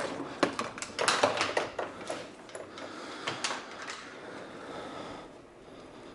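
Hand tools being put away: a quick series of clicks and clatters, then quieter handling and rustling that fades.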